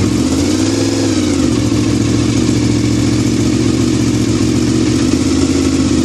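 1988 Honda VFR750F's liquid-cooled 750 cc V4 idling steadily just after a cold start on a little choke, the engine stone cold. About a second in the revs rise slightly and settle again.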